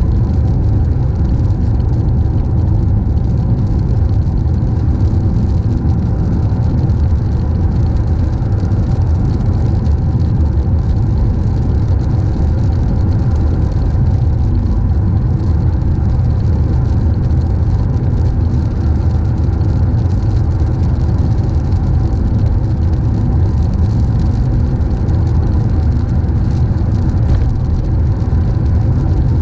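A car driving steadily, its engine and tyres making a continuous low rumble with no change in speed.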